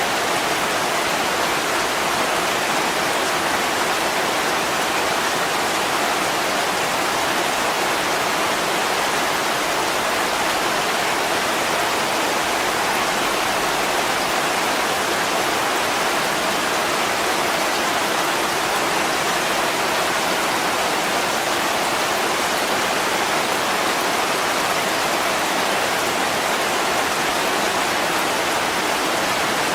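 Heavy rain pouring steadily on window glass: an even, unbroken hiss.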